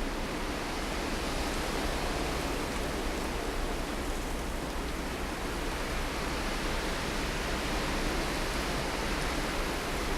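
Steady wind of a winter blizzard: an even rushing noise that builds slightly toward the end.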